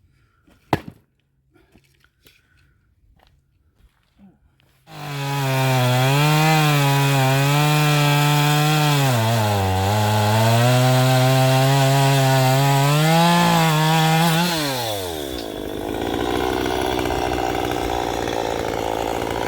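A single sharp knock about a second in, then about five seconds in a chainsaw comes in loud at high revs, its pitch dipping and recovering as it loads up in the cut. Around fifteen seconds in the pitch falls away and a rougher, noisier running sound carries on.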